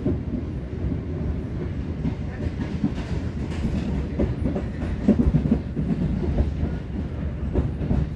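Passenger train coach rolling along the track, heard from inside the coach: a steady low rumble with irregular clacks of the wheels over rail joints, a cluster of louder clacks about five seconds in.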